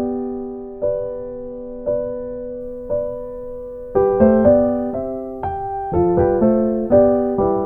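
Gentle solo piano background music: struck chords ringing out about once a second, then quicker notes from about halfway through.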